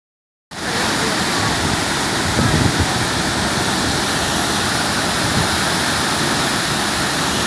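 Waterfall pouring: a loud, steady rush of falling water that starts about half a second in, with a brief low rumble a little over two seconds in.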